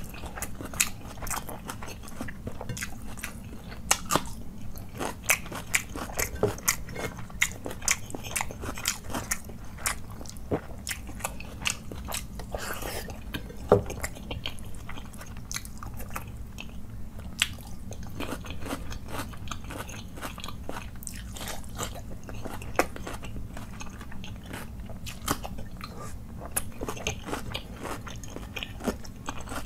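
Close-miked chewing of rice and chicken curry eaten by hand, with many sharp mouth clicks and crunches.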